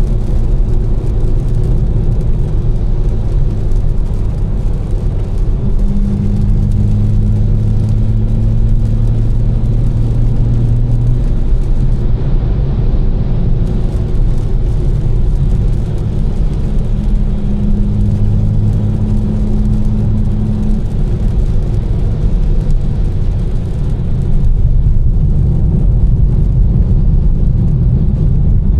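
Tuned BMW M4 with catless downpipes and an Fi exhaust, its twin-turbo straight-six cruising with a steady low drone. A deeper engine hum swells twice, with the hiss of tyres on the wet road underneath.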